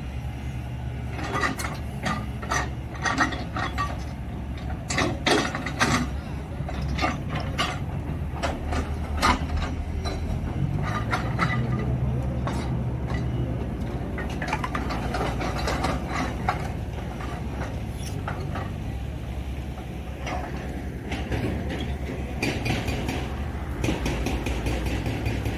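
A JCB digger's diesel engine runs steadily while its bucket digs into rock, with repeated metallic clanks and knocks. The knocks are thickest in the first ten seconds and come again near the end.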